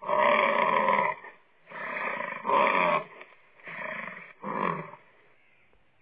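Bison bellowing in a run of loud calls: one long call at the start, then four shorter ones about a second apart, the later ones mostly quieter.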